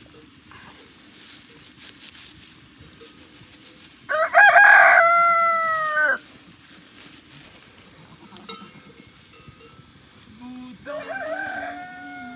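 A rooster crowing once, loudly, for about two seconds, about four seconds in. A second, quieter call starts near the end.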